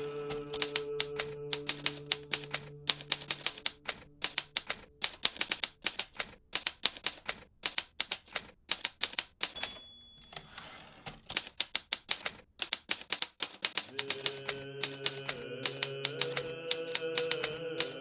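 Hermes Baby portable typewriter keys striking in quick, irregular runs. About halfway through a single bell rings, followed by a short sliding noise and a pause, typical of the end-of-line margin bell and the carriage return. A soft sustained music tone sits under the typing at the start and again near the end.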